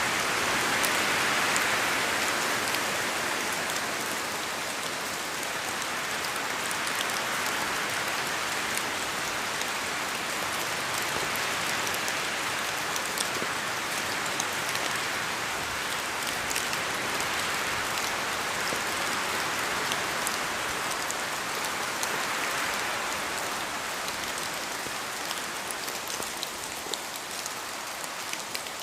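Steady rain falling, a dense even hiss with many small drops ticking through it.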